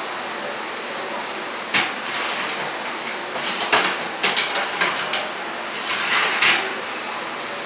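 Steady rushing noise with a handful of sharp knocks and clatters in the middle, like objects being handled and set down.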